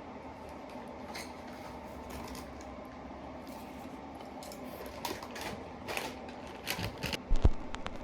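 Light clicks and knocks of utensils and dishes during a home meal over a steady low room hum, the clicks coming more often in the second half.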